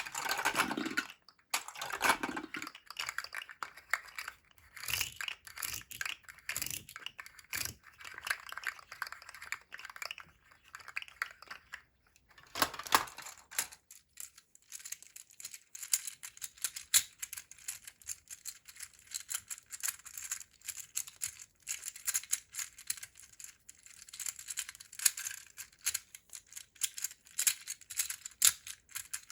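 Plastic candy-toy packaging being unwrapped: crinkling, tearing and many small crackly clicks. From about halfway the crackle turns steadier and higher.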